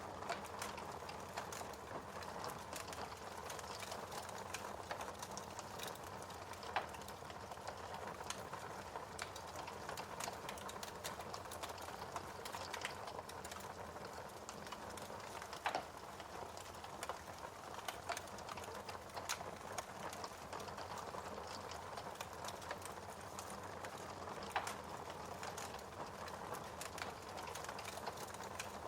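Wood fire burning in a fireplace: a steady crackle of small snaps, with a few louder pops.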